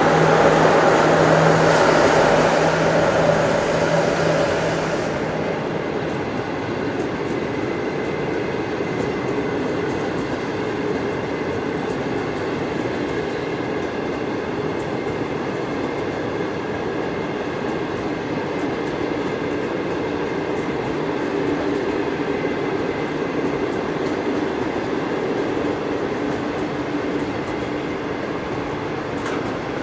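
Long works train rolling slowly across a bridge, a steady rumble of coaches and loaded works wagons. It is louder for the first five seconds, and a steady low hum drops out about five seconds in.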